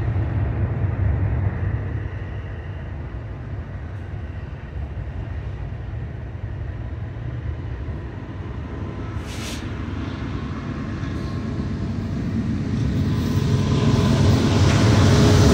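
Approaching BNSF diesel freight locomotives pulling a container stack train: a low rumble that grows steadily louder over the last few seconds.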